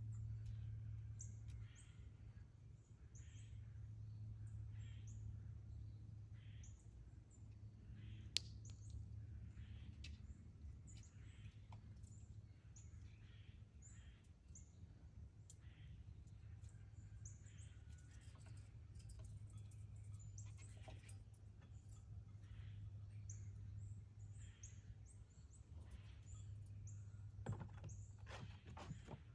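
Faint birdsong: many short, high chirps repeating over a steady low hum, with one sharp click about eight seconds in.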